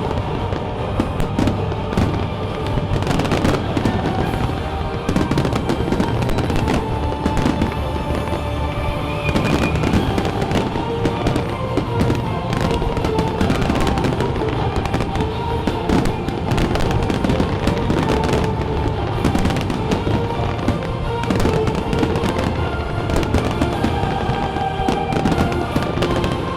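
Fireworks display: a continuous barrage of rapid bangs and crackling bursts from aerial shells, with music playing alongside.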